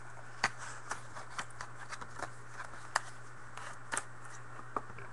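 Sparse, irregular light clicks and crinkles from handling trading-card boxes and packs, over a steady low hum.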